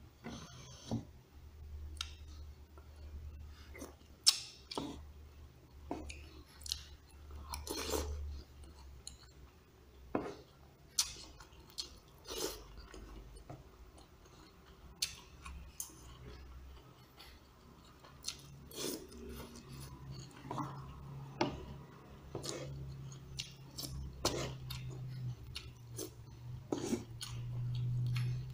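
Close-up chewing of mouthfuls of rice and shredded chicken, with scattered sharp clicks of a metal spoon and fork against the plate.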